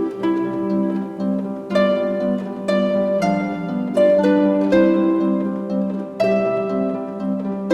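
Instrumental background music of plucked string notes, with harp-like tones sounding one after another.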